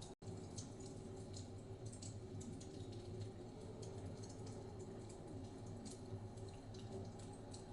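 Log fire crackling: irregular small pops and snaps over a steady low rumble. The sound cuts out for an instant just after the start.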